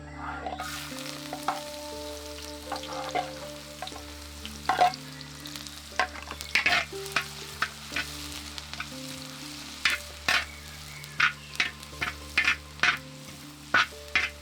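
Food stir-frying in a pan: a steady sizzle with a utensil scraping and clacking against the pan again and again, the clacks coming faster in the second half, over soft background music.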